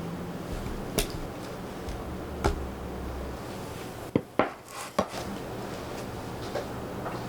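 A few light knocks and clinks of kitchenware, three of them close together midway, over a steady low hum.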